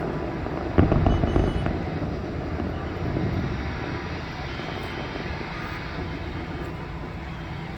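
Aerial fireworks going off: a sudden loud bang about a second in, followed by about a second of crackling and a rumbling echo that slowly fades.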